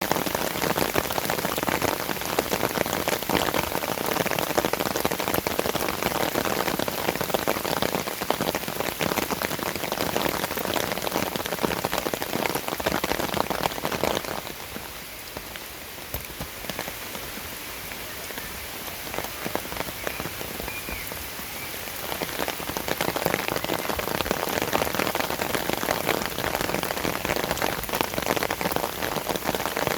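Sudden rain shower, a dense patter of drops hitting surfaces. The rain eases for several seconds around the middle, then picks up again.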